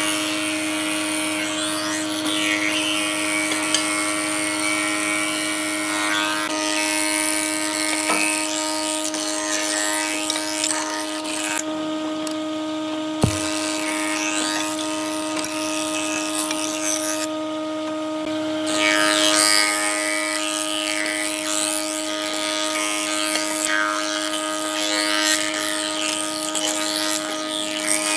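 Electric power tool running steadily while working wood, a constant motor whine over the rasp of the cutting, with one sharp knock partway through.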